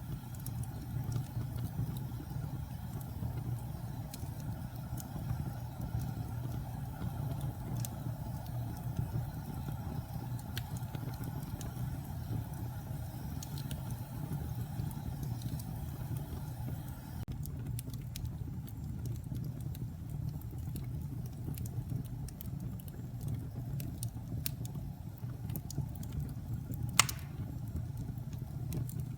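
Wood fire in a fireplace crackling: a steady low rumble with scattered small pops and one sharper, louder crack near the end.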